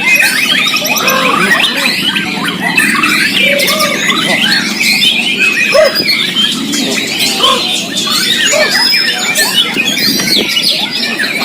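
Several white-rumped shamas singing at once: a dense, continuous tangle of whistles, chirps and harsh notes.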